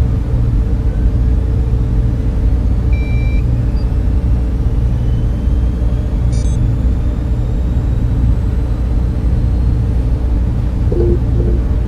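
Steady low drone and hum of data center server fans and cooling equipment. A short electronic beep sounds about three seconds in, and a brief faint chirp a little past halfway.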